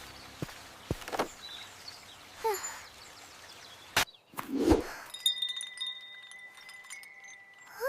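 Soft tinkling chimes with scattered light clicks and a few short swishes. Thin high tones ring steadily through the second half.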